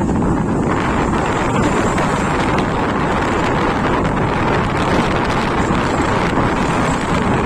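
Steady wind rush buffeting the microphone of a moving motorcycle, with the bike's engine and road noise beneath it.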